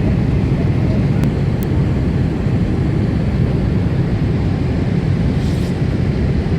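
Steady low rumble of a Boeing 747-8's four GEnx jet engines and airframe, heard inside the passenger cabin.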